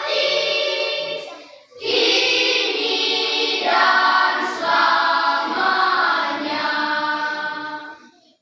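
A choir singing a hymn in three-part harmony, with a short break for breath about two seconds in. The singing stops about eight seconds in.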